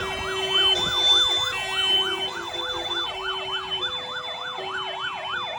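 Fire truck sirens sounding together: a fast rising-and-falling yelp, about two to three sweeps a second, over a two-tone hi-lo siren switching pitch about every three-quarters of a second.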